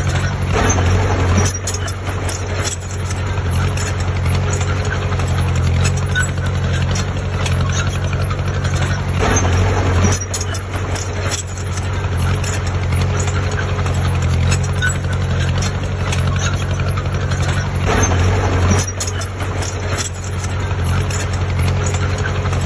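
Heavy diesel engine of construction machinery running steadily, a low even drone with a few brief louder surges: near the start, about ten seconds in, and around eighteen seconds in.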